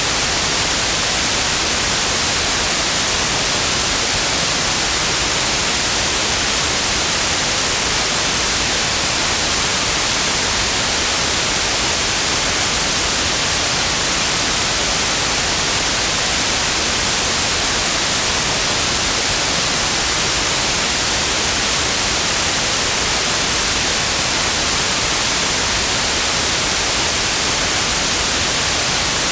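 Synthetic white noise: a steady, even hiss with most of its energy in the high frequencies, unchanging throughout.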